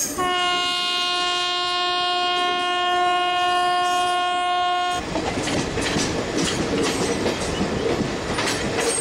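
A train horn sounds one long, steady, single-pitch blast of about five seconds and cuts off suddenly. After it, the wheels of the moving passenger carriage clatter and rattle over rail joints and points.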